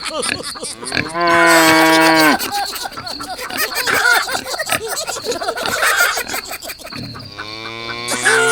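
A cow mooing twice: one steady moo lasting about a second, starting about a second in, and a lower moo building up near the end, with busy mixed sound between them.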